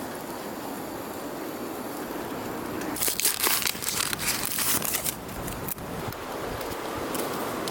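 Steady wind noise; about three seconds in, a couple of seconds of crinkling and rustling, like plastic or packaging being handled.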